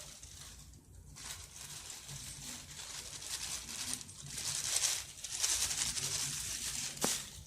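Cornstarch being poured from its package into a bowl: a soft rustling hiss that comes and goes, with a sharp click near the end.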